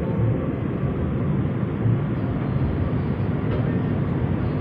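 Steady rumble and hiss of a car in motion, heard from inside the cabin.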